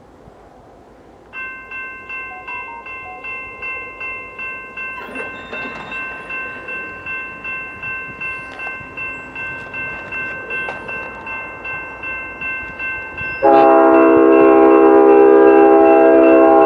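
A railroad crossing bell starts ringing about a second in, a steady multi-tone ding pulsing about twice a second. Near the end the approaching BNSF diesel locomotive's horn sounds loudly, a long chord of several notes that drowns out the bell.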